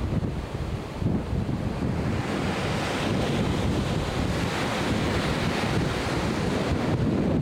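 Atlantic Ocean surf breaking and washing in, with wind buffeting the microphone as a low rumble. A wave's hissing rush builds about two seconds in and fades near the end.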